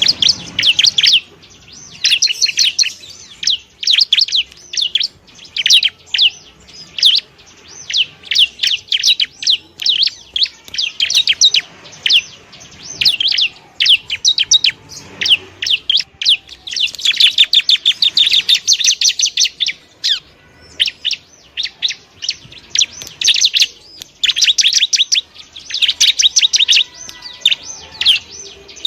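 Bar-winged prinia (ciblek) singing a rapid, high-pitched chattering song in repeated bursts of a second or few, separated by short pauses.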